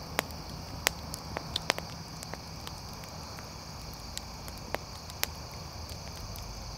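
Steady high-pitched chirring of insects in the woods, with about a dozen scattered sharp clicks and pops at irregular moments.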